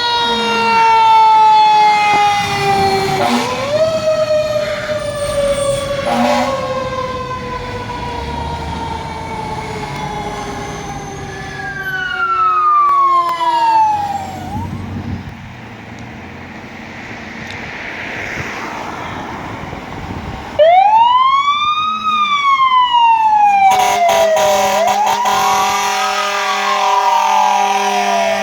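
Fire truck sirens. A siren tone falls slowly in pitch, winding down over about the first fourteen seconds with a brief rise near three seconds. After about twenty seconds a siren wails up and down every few seconds, and from about twenty-four seconds an air horn blares along with it.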